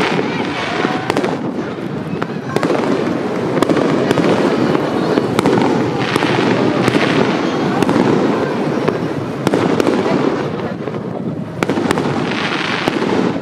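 Aerial fireworks going off in rapid succession: sharp bangs over a continuous rumble. Bursts of crackling come about six seconds in and again near the end.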